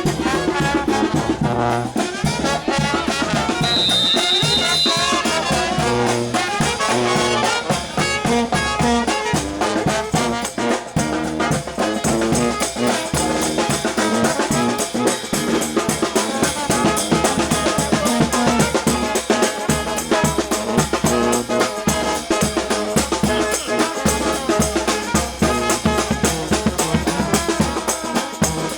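New Orleans brass band playing a second-line street tune: trumpets and trombones over a steady bass drum and snare beat.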